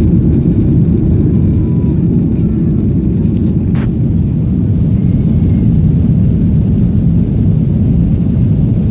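Cabin noise of a Boeing 737-900ER under way: a loud, steady rumble of its CFM56 jet engines and airflow, with one brief click near the middle.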